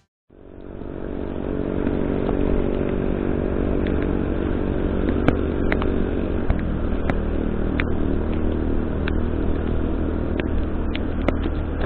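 A vehicle's engine running with road noise in heavy rain, fading in about half a second in, with scattered sharp ticks throughout.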